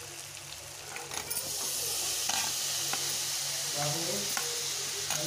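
Spiced masala frying and sizzling in a steel pot, with a few clicks of a steel spoon against the pot. About a second and a half in, the sizzle grows louder and stays up as chopped futu mushrooms go into the hot masala.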